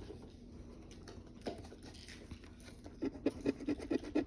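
Scratch-off lottery ticket being scratched: faint scraping at first, then a run of quick, rapid scratching strokes from about three seconds in.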